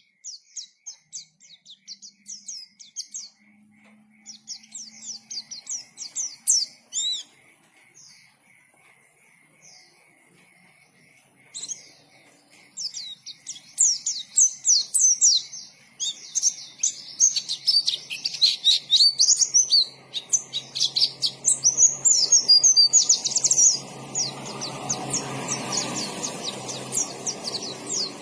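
White-eye (pleci) singing a fast, high chattering warble of sweeping chirps. The song is broken at first with a short lull, then runs on without pause and grows louder through the second half.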